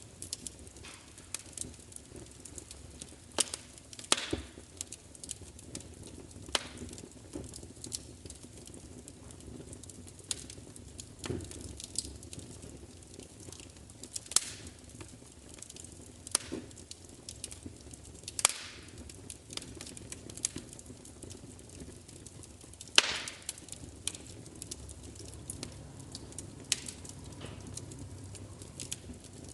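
Wood fire crackling: irregular sharp pops and snaps, a few much louder than the rest, over a steady low rustle of burning. The loudest snap comes about three-quarters of the way through.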